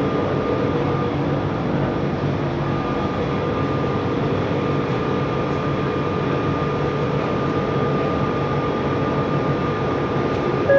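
Steady running noise heard from inside a Bombardier Innovia ART 200 train, with a faint steady high hum over the rumble.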